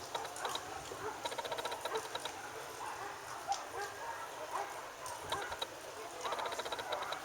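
Steady rain hiss during a thunderstorm, with three bursts of rapid, evenly pulsed trilling animal calls and scattered short chirps.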